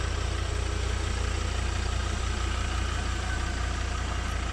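Ford Ranger's 3.2-litre five-cylinder diesel engine idling steadily.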